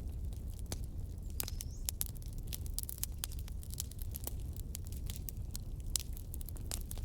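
Wood fire crackling: irregular sharp pops and snaps over a low steady rumble of the flames.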